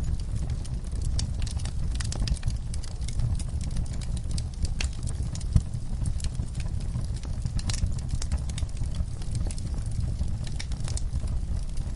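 Wood logs burning in a fireplace: irregular sharp crackles and pops over a low steady rumble of flame, with one pop louder than the rest about halfway through.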